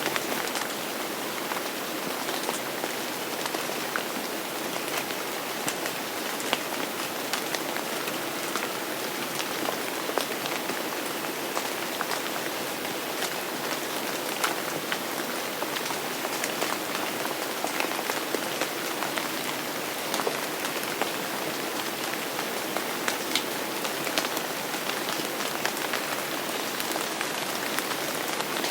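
Steady rain falling, a dense even hiss with many individual drops ticking sharply on a hard surface.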